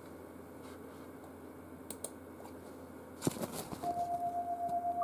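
Light clicks and taps at a computer, with a cluster about three seconds in, then a steady electronic tone starts near the end with a slight pulsing: the opening of an internet radio broadcast playing through Trust desktop PC speakers.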